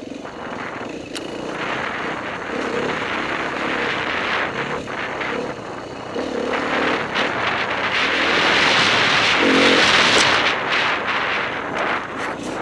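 Enduro motorcycle engine heard from the bike itself, revving up and down as it is ridden along a rough trail, getting louder about two-thirds of the way through. Wind rush and short knocks from the bumpy ground come through the mounted camera.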